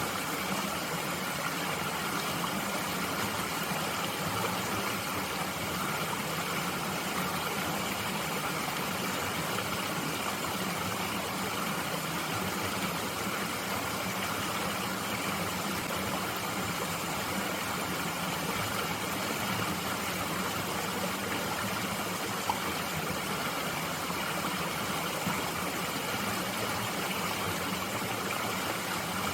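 A mountain stream flowing steadily: an even, unbroken rush of water.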